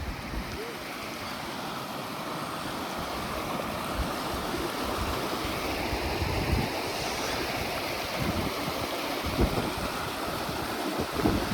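Wind blowing on the microphone: a steady rushing hiss, with several low buffeting thumps from gusts.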